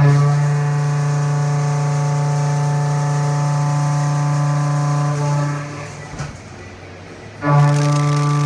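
Haas VF-2SS CNC mill cutting S355 structural steel: a steady pitched hum with many overtones starts suddenly as the cutter enters the cut. It dies away about five and a half seconds in and returns suddenly near the end as the next pass begins.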